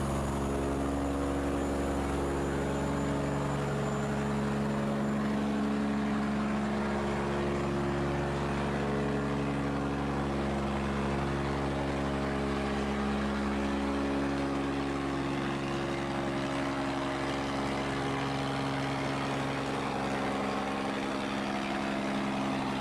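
A ship's engine running at a steady drone over the rush of fast-flowing water.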